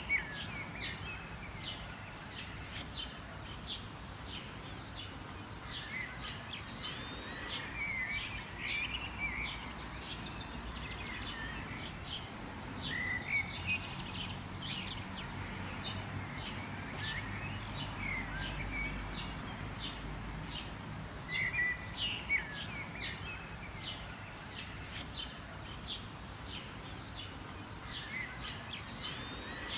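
Birds chirping and calling without pause: many quick, sharp chirps overlapping with a few short warbling phrases, over a steady natural background hiss.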